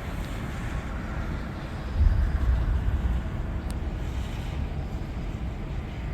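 Thunder rumbling low, swelling suddenly about two seconds in and rolling on for several seconds over a steady background noise.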